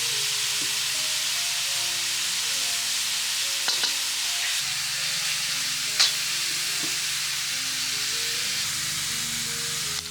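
Food sizzling steadily in a hot pan, with two sharp utensil clinks, one near four seconds in and a louder one about six seconds in.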